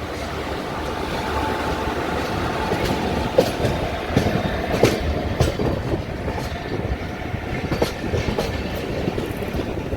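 Rajdhani Express passenger coaches running on the rails: a steady rumble with clickety-clack of the wheels over rail joints, several sharp clacks in the middle.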